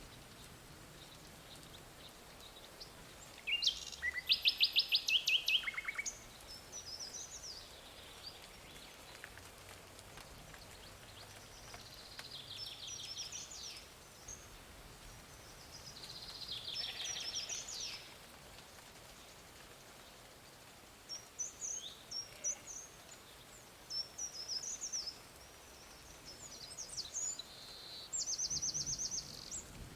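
Songbirds singing: fast high trills repeated every few seconds, the loudest about four seconds in, with short chirps between, over a faint steady outdoor hiss.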